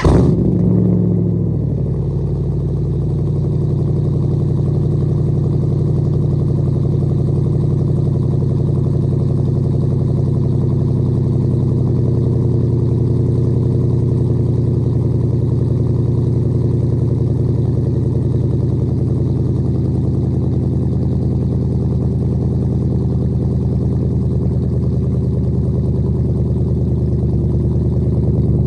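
Jeep Grand Cherokee SRT's HEMI V8 idling through an exhaust with the catalytic converters deleted, just after start-up. The idle is a little higher for the first couple of seconds, then settles to a steady, even idle.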